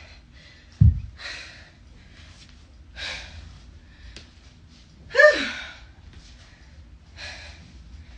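A person breathing hard during exercise: short, sharp breaths about every two seconds, with a loud voiced exhale that falls in pitch about five seconds in. A single low thump comes about a second in.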